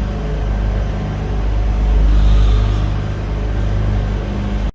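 Steady low mechanical drone of a moving vehicle, loud and even, cutting off abruptly near the end.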